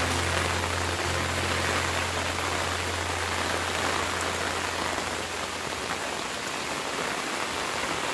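Steady rain falling on the orchard's leaves and wet ground, a dense even hiss. A low steady hum runs underneath and fades out about five seconds in.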